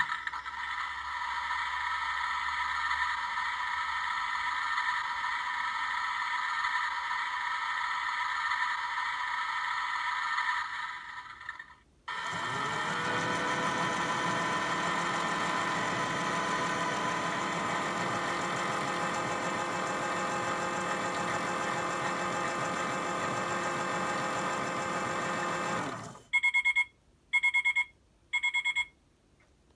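Toy Hoover Six Saver 1200 washing machine's small electric motor whirring as it turns the newly fitted drum. It cuts out about eleven seconds in, starts again with a rising whine, runs on, then stops, and three short electronic beeps follow near the end.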